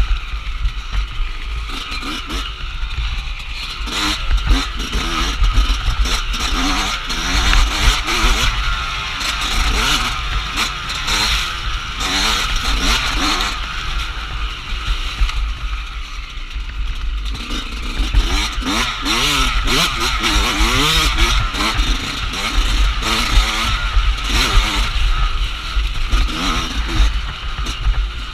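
Off-road dirt bike engine revving up and down over and over as it is ridden, with wind buffeting on the microphone and the rattle of the bike over rough ground.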